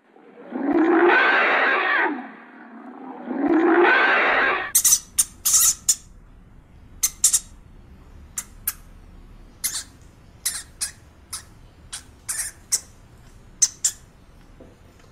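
An animal gives two long calls, each rising and then falling in pitch. After a change of scene, a series of short, high-pitched squeaks follows at irregular intervals, typical of a small animal such as a rodent.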